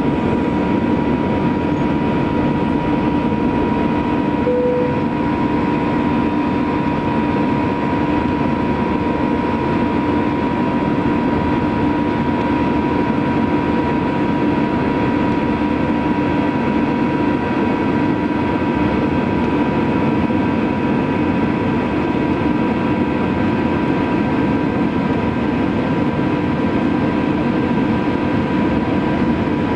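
Airbus A321 turbofan engines at high thrust: a steady loud rush with a constant whine near 1 kHz and a lower hum underneath.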